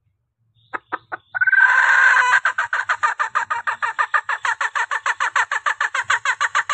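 Junglefowl hen calling: a few short clicks, then a held note of about a second, then a fast, even run of clucks at about six a second. It is a hen's call that draws in the cocks.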